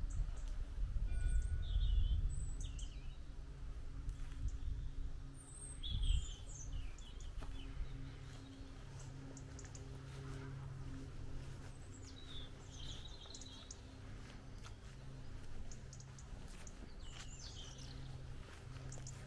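Birds chirping and calling in short, scattered phrases over outdoor background noise. A low rumble fills the first few seconds, and a faint steady low hum runs underneath from about eight seconds in.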